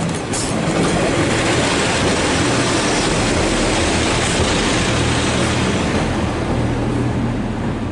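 A train running on the line: a steady, loud rumble and rush with a low hum underneath, starting to fade near the end.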